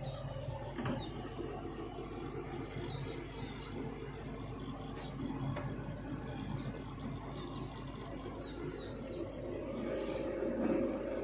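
Volvo EC350DL excavator's diesel engine running steadily, a little louder near the end.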